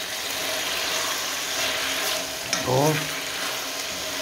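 Chicken pieces and garlic sizzling in a non-stick frying pan, making a steady frying hiss as they are stirred with a wooden spoon.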